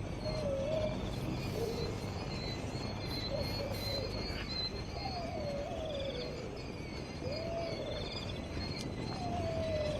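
An animal giving repeated wavering, sliding calls, about six in all, over steady high chirping.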